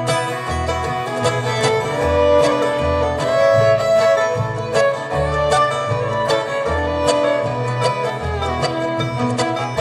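Live acoustic bluegrass band playing an instrumental break between sung verses: a sustained lead melody over picked string accompaniment, with steady bass notes on the beat.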